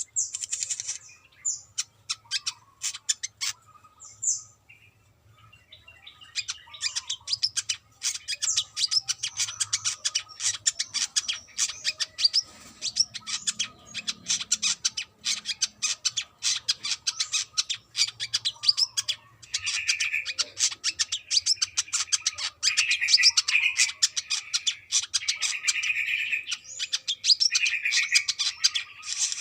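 Brown-throated sunbird singing: fast, busy runs of high chirps and trills, with a brief lull a few seconds in and lower repeated notes joining in from about twenty seconds in.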